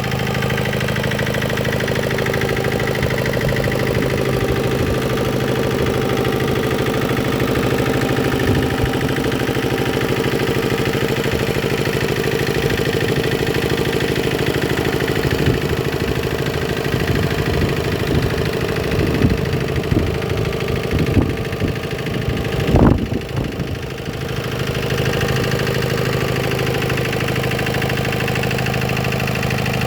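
Yanmar TS50C 5 hp single-cylinder diesel engine running steadily at idle after a cold start, running smoothly. A few irregular bumps come in about halfway through, the loudest near the end of that stretch.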